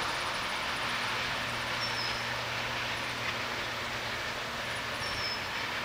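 Steady rumble of a long freight train moving away down the line, with a few faint, short high chirps.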